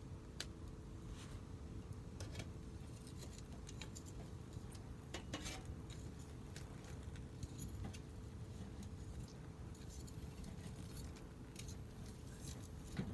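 Wood fire crackling in a fire pit: irregular sharp snaps and pops over a low steady rumble.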